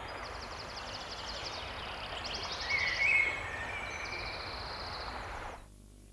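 Outdoor ambience ending a piece of music: a steady wind-like rush with rapid high chirping trills and a short gliding call about three seconds in. It cuts off suddenly near the end.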